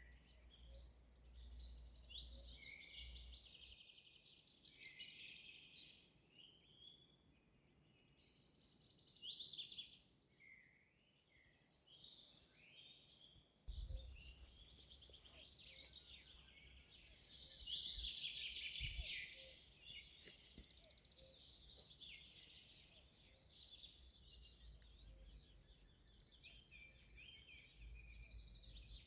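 Several songbirds singing at once, faint, with overlapping whistled phrases and rapid trills throughout. A low rumble comes and goes underneath.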